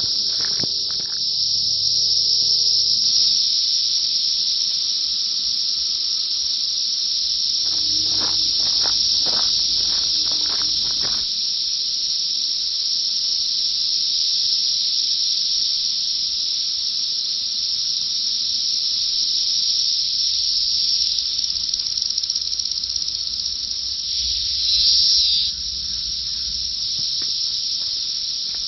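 Dense chorus of Brood X 17-year periodical cicadas: a loud, unbroken high-pitched drone that swells briefly louder near the end.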